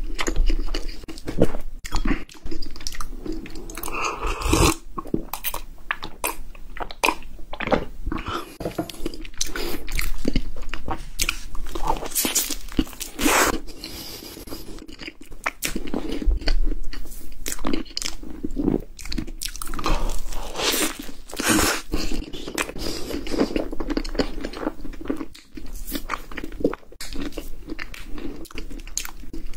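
Close-miked chewing and biting of a soft cream-filled pastry topped with mango, with many sharp, irregular mouth clicks and wet smacks.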